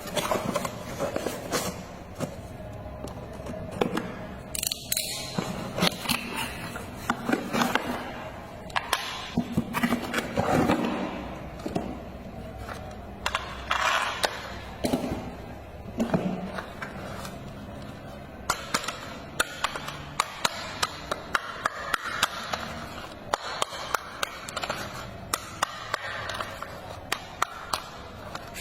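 A plastic toy being handled: many irregular sharp clicks and knocks with some scraping.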